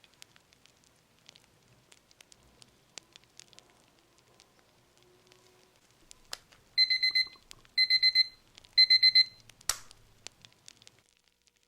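Pomodoro timer alarm beeping: three quick bursts of four high electronic beeps, about a second apart, marking the end of a timed interval. Faint fire crackling runs underneath, and a sharp click follows the last burst.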